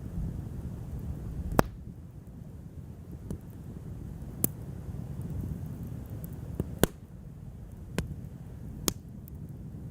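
Wood fire crackling: a handful of sharp, irregular pops, the loudest about one and a half seconds in, over a low steady rumble.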